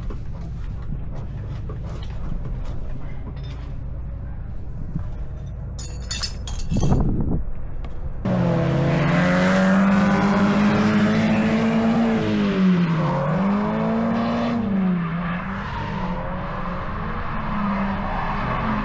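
Drift car engine heard over a low rumble. About eight seconds in it comes on hard and loud, its pitch dipping and climbing several times as the throttle is worked.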